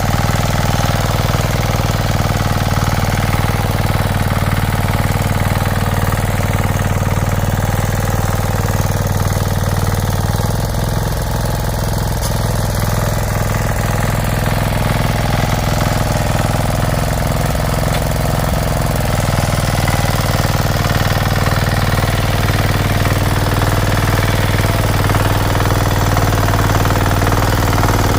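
An engine running steadily, with a deep, even thump.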